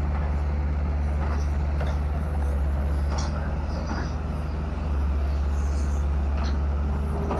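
Excavator's diesel engine running steadily with a low hum, rising slightly in level a couple of times.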